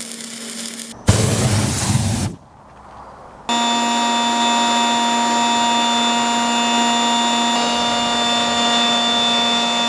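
Leaf blower running steadily, forcing air into a homemade gas-can furnace, a constant whine over a rushing blast of air. Before it, in the first few seconds, come short abrupt stretches of hiss and a louder rushing whoosh.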